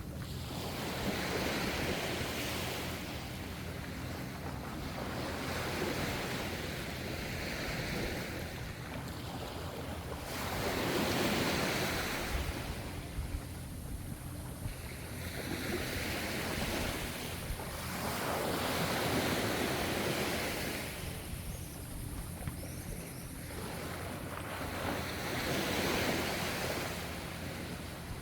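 Gentle ocean waves washing ashore: a steady rush of surf that swells and fades every few seconds.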